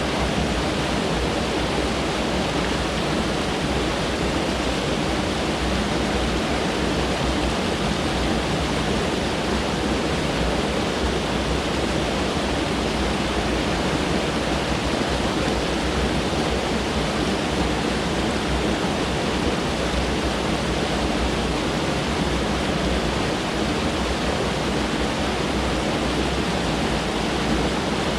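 Mountain stream rushing over rocks: a steady, even rush of water that does not change.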